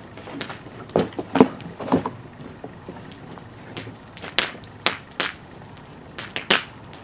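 Fire with disposable lighters in it, giving sharp pops and cracks at uneven intervals, about seven or eight in all, the loudest about a second and a half in.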